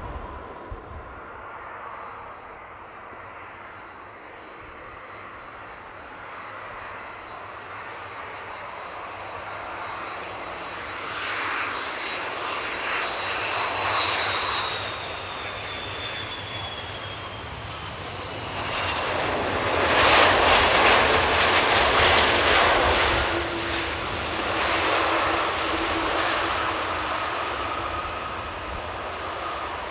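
Air Canada Airbus A330-300 twin-jet on landing approach passing by. A high engine whine slowly falls in pitch as it comes in, and the jet noise builds to its loudest about two-thirds of the way through, then fades away.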